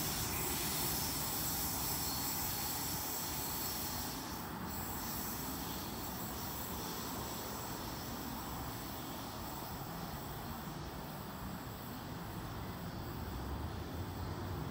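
Tangara electric suburban train pulling away and receding down the line, its running noise slowly fading under a steady hiss.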